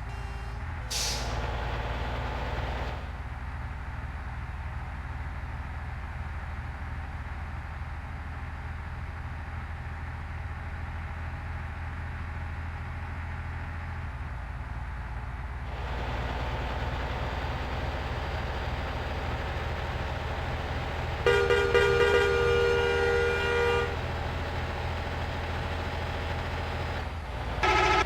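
Steady low rumble of a truck engine under way. About three-quarters of the way through, a horn sounds once for two to three seconds on a steady pitch.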